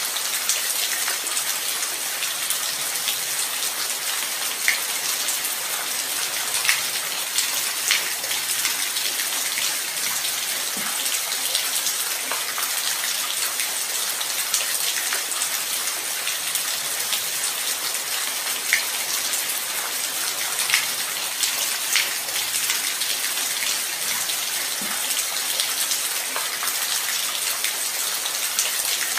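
Light rain falling steadily, a constant high hiss with scattered close drops ticking now and then.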